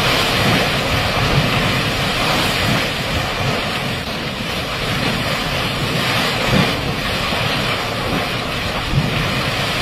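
Geothermal vent erupting, a steady, loud rush of steam and hot water over a low rumble.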